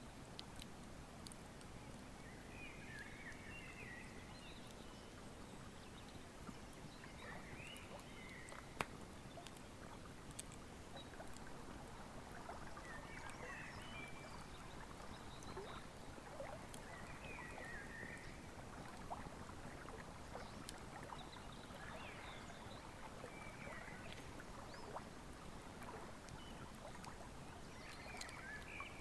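Wood fire crackling with scattered sharp pops, the sharpest about nine seconds in, over the steady rush of a flowing river. Short chirping bird calls come every few seconds.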